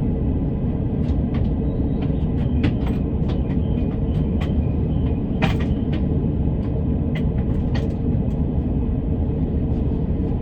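Electric commuter train cabin noise: a steady low rumble with a faint hum and many scattered sharp clicks and ticks.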